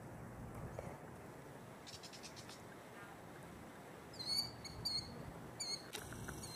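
Bird calls: a quick series of high, short, downward-sweeping notes starting about four seconds in, over a faint steady outdoor background, with fainter high notes earlier.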